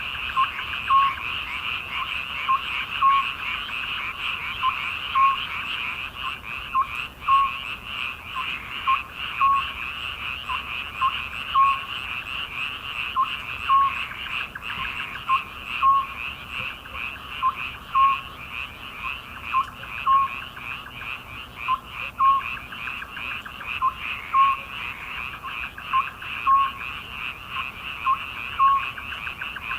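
A chorus of frogs calling: a dense, continuous trilling chorus, with a louder short croak repeating about once a second above it.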